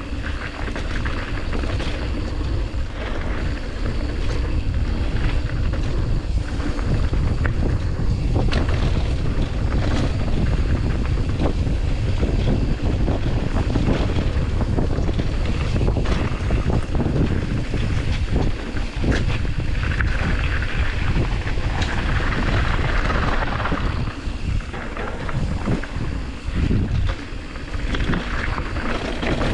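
Wind buffeting the microphone over the steady rumble and rattle of a mountain bike rolling along a dirt trail, with scattered clicks and knocks.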